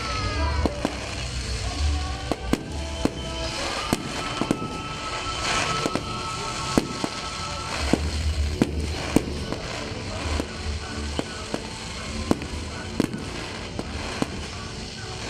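Aerial fireworks display: irregular sharp bangs of shells bursting overhead, one after another, with a few whistling glides near the start. Music plays underneath.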